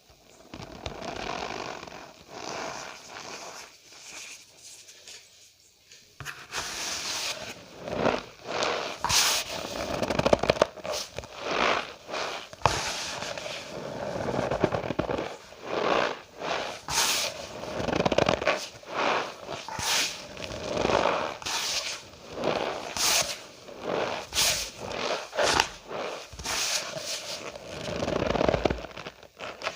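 Cornstarch powder being squeezed and crushed, giving squeaky crunching in repeated bursts about once a second, softer for the first six seconds or so and louder after.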